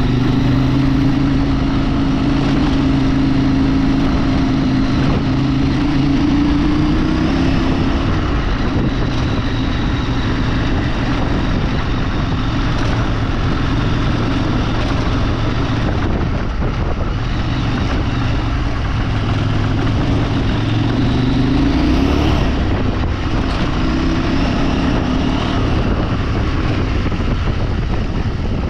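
Off-road motorcycle engine running under way, its pitch rising and falling as the throttle opens and closes, over a steady rush of noise.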